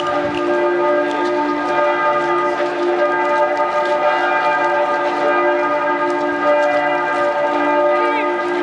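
Church bells of St. Peter's in Munich pealing, several bells sounding together in a continuous wash of overlapping ringing tones.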